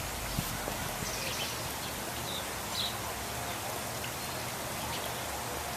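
Lovebirds giving a few short, high chirps over a steady background hiss.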